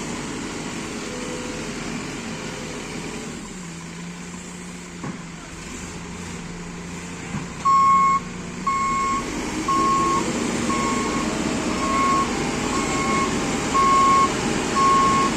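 Heavy diesel machinery running steadily, then from about halfway a travel or reversing alarm starts beeping, about one beep a second, typical of an excavator moving on its tracks.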